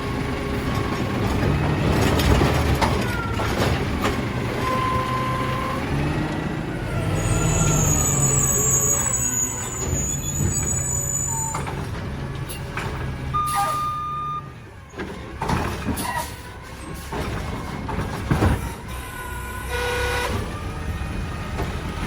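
Mack LR garbage truck with a Heil Durapack Rapid Rail side-loader body working, its engine running with the pitch rising and falling. A high squeal is heard for a few seconds, there are two short beeps, and the engine sound drops off about two-thirds of the way in.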